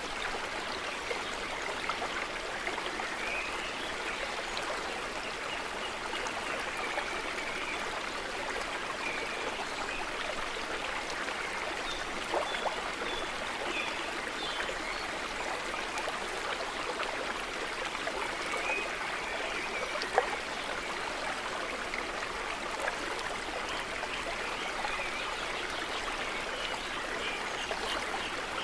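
A small forest stream running steadily, an even, continuous rush of water.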